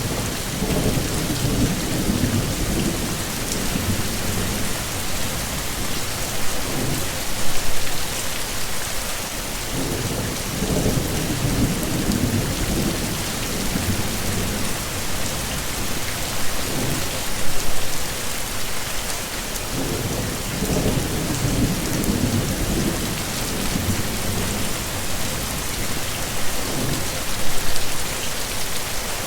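Steady heavy rain hissing, with low rolling thunder rumbles swelling and fading about every ten seconds.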